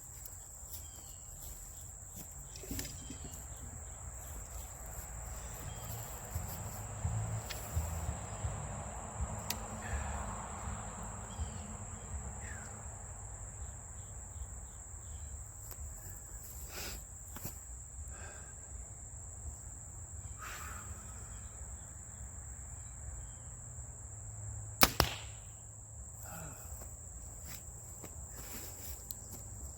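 Crickets chirring steadily, and near the end one sharp crack as a bow is shot, the string snapping forward to loose an arrow.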